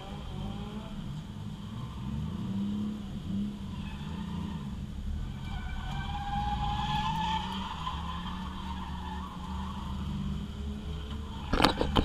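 Drift car's engine running at low revs, heard from inside the caged cabin as the car rolls slowly, its revs rising and falling. A tyre squeal rises and fades in the middle, and a burst of sharp knocks comes near the end.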